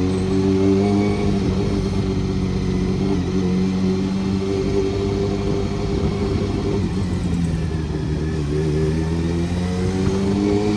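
Honda CBR400RR's inline-four engine running under way. Its pitch sags gently through the middle and climbs again near the end as the revs rise.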